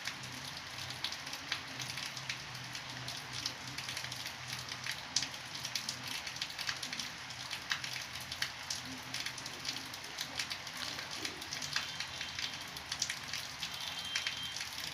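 Faint crackling hiss dotted with many small irregular clicks over a low steady hum, with a brief thin high tone near the end.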